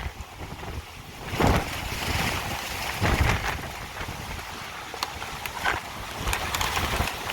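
Strong storm wind gusting across the microphone, a rushing noise with low buffeting rumble that surges hardest about one and a half and three seconds in.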